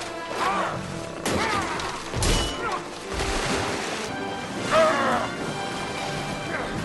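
A dwarf warrior's short grunts and battle cries in a film battle scene, over orchestral film score, with several crashing impacts.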